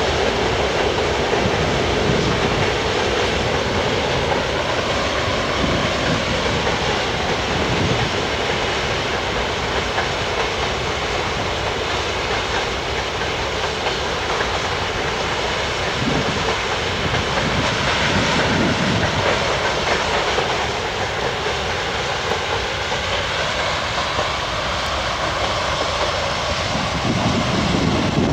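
Loaded grain hopper wagons of a long freight train rolling across a viaduct: a steady rumble and rattle of wheels on the rails.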